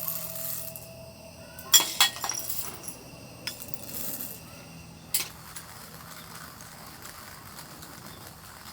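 Hard objects clinking together several times with a brief ring: a loud pair about two seconds in, a few lighter knocks after, and a last clink about five seconds in.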